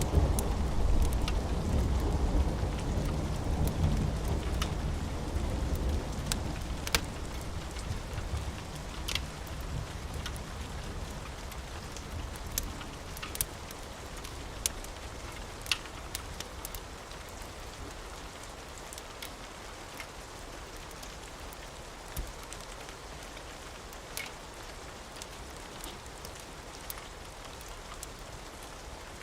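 Thunder rumbling and dying away over the first several seconds, over steady rain. Scattered sharp pops of a crackling wood fire sound throughout.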